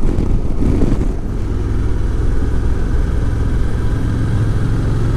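Motorcycle engine running steadily on the move, its low drone holding an even pitch.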